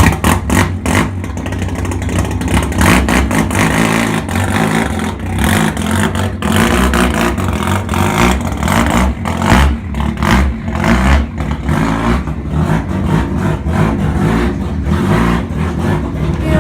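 An engine running and revving unevenly, with clattering knocks through it.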